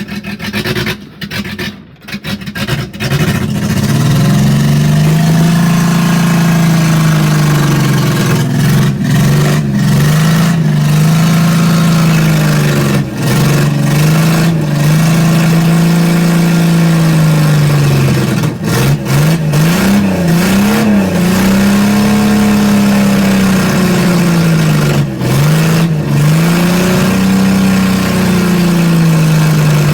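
1984 GMC S-15 pickup's engine running after a long time sitting, its speed rising and falling in slow swells every two to three seconds, with an uneven first few seconds. It is running rough on the choke, which the owner takes for not firing on all cylinders.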